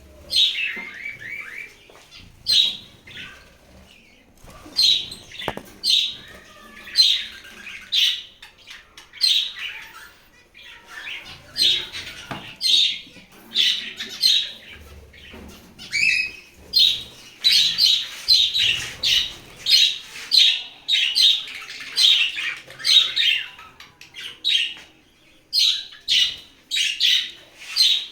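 Budgerigars chirping in short, sharp calls about once a second, coming thicker and faster through the middle stretch.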